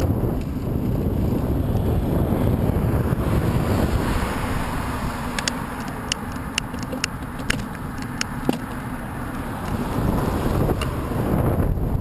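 Wind buffeting the microphone of a camera on a moving bicycle, a steady low rumble that eases a little in the middle. About halfway through comes a quick, irregular run of sharp clicks.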